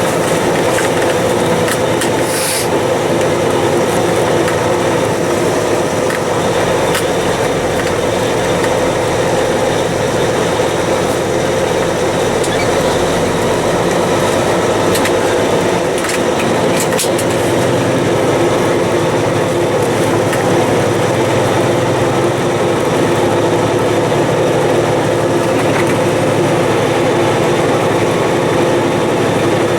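Peterbilt 379 semi truck's diesel engine running, a steady unbroken drone.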